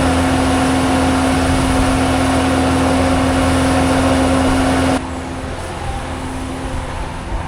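A motor vehicle's engine running steadily with a constant hum. About five seconds in, the sound drops suddenly to a lower level and carries on.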